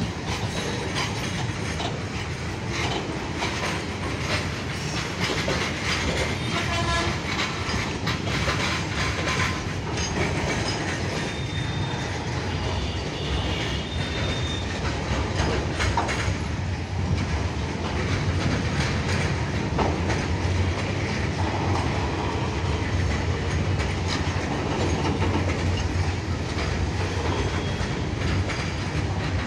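Freight train of open-top goods wagons rolling past steadily, its wheels clattering over the rail joints.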